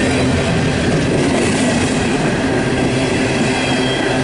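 Empty open-top steel coal cars of a freight train rolling past close by: a loud, steady rumble of wheels on rail.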